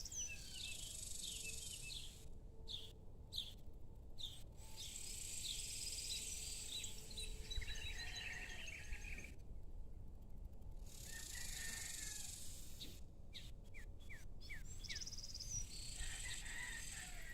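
Several small birds chirping and twittering in an evening chorus, over a steady low rumble.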